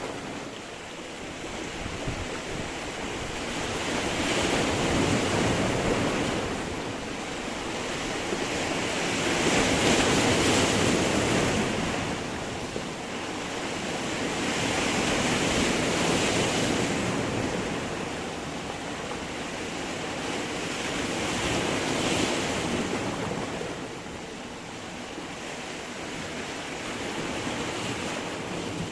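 Sea waves surging against rocks, with a steady rush of surf that swells and eases about every five to six seconds, five surges in all.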